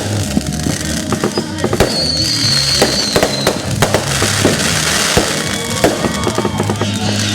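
Fireworks going off in rapid bangs and crackles, with a brief high whistle about two seconds in, over music with steady bass notes.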